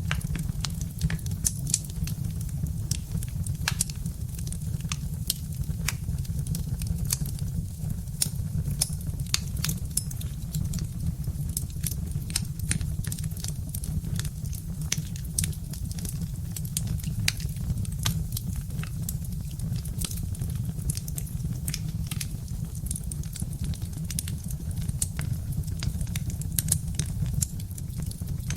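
Birch-wood fire crackling, with frequent sharp pops and snaps at irregular intervals over a steady low rumble.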